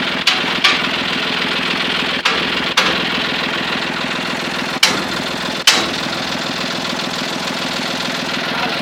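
Tractor engine running steadily at a constant speed, broken by six sharp knocks that come in three pairs.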